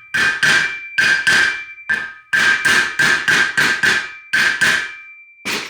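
Steel hammer blows driving a new bearing race into a Toyota 4Runner front hub, about fourteen sharp metallic strikes at two or three a second, each ringing briefly, with a short pause before the last one: the final pass around the race to seat it fully.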